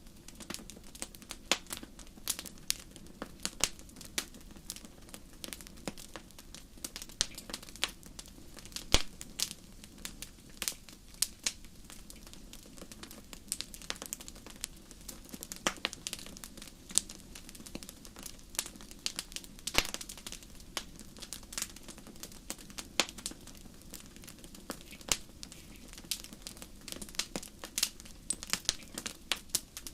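Crackling wood fire in a fireplace: irregular sharp pops and snaps, a few each second, some much louder than others, over a steady low background.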